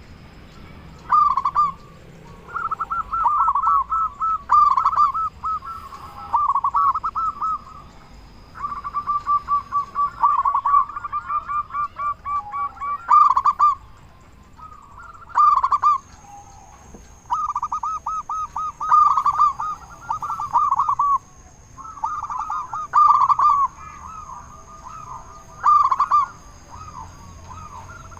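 Zebra dove (perkutut) cooing: phrase after phrase of rapid, bubbling coo notes with short pauses between them.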